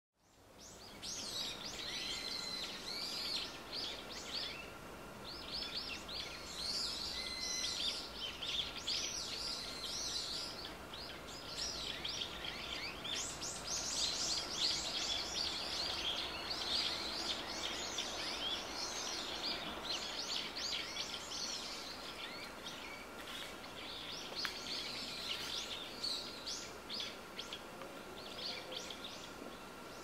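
Small birds chirping and calling in woodland, many short high calls overlapping almost without pause, over a faint steady tone.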